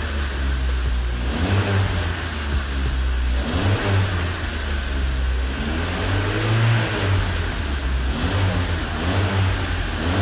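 Honda Civic EG3's carburetted four-cylinder engine revved in several throttle blips, each rising and falling in pitch over a steady idle, heard at the tailpipe. The replacement exhaust is sealed and sounds a bit throatier.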